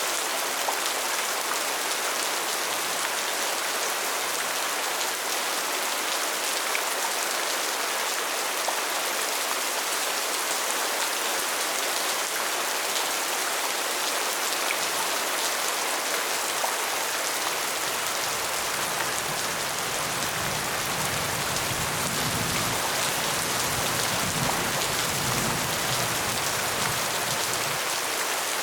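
Steady rain falling, an even hiss of many drops. A low rumble swells in the background for several seconds in the second half, then fades before the end.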